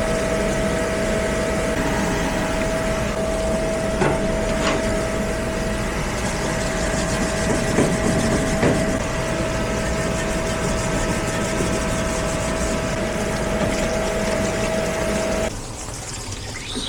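Parts washer pump running with solvent pouring from its nozzle, a steady motor whine over a rush of liquid, with a couple of light knocks of parts in the tank; the pump shuts off suddenly near the end.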